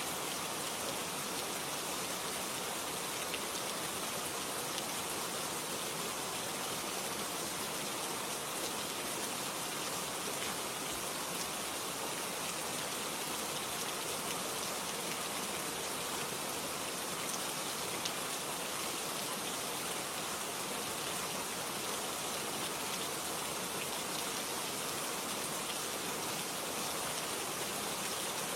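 Steady rain falling, an even hiss with faint pattering drops.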